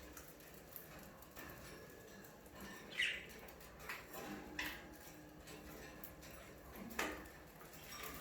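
Budgerigars giving scattered short chirps and squawks, with three sharper calls a second or two apart.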